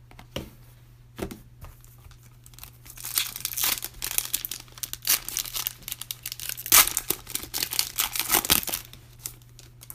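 Plastic wrapper of a Panini Prizm trading-card pack being torn open and crinkled by hand. A few light clicks come first, then the crinkling builds from about three seconds in and dies away near the end.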